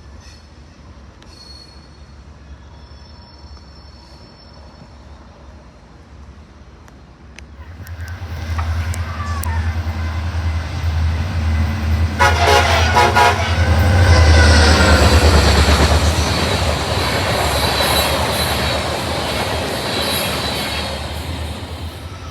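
A diesel-hauled train approaching and passing: a deep engine rumble with rail noise builds from about eight seconds in. A horn sounds briefly about twelve seconds in, and the loud passing rumble then eases off slightly near the end.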